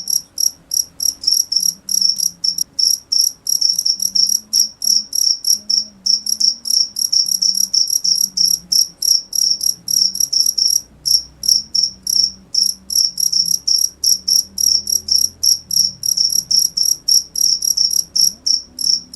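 A cricket chirping steadily in a fast, even rhythm of short high-pitched chirps, about three a second, with a couple of brief breaks about halfway through.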